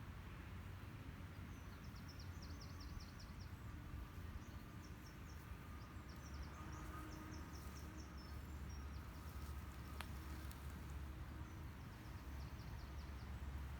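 Faint nature ambience: a small bird calling in several quick runs of short, high, thin notes, over a steady low rumble. A single sharp click about ten seconds in.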